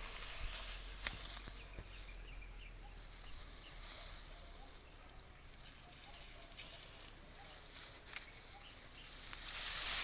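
Faint outdoor field ambience: a steady high-pitched insect buzz with scattered short chirps and a few light clicks, and a burst of rustling near the end.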